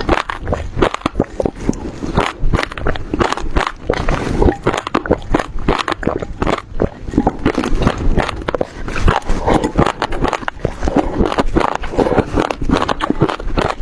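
Close-miked chewing of passion fruit pulp: the seeds crack and pop between the teeth in a dense, irregular run of crisp crunches, with wet mouth sounds between them.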